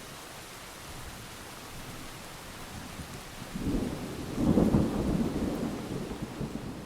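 Heavy rain falling in a steady hiss, with a low rumble of thunder rising about halfway through, loudest a second later, then rolling away.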